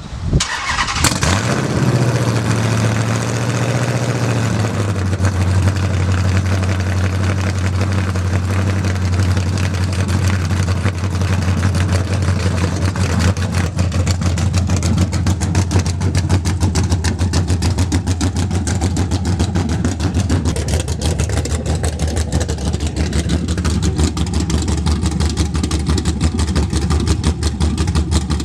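Cold start of a 5.7-litre V8: a brief crank, the engine catches about a second in with a rev flare, then holds a high cold idle that drops about four seconds in and settles into a steady, even idle.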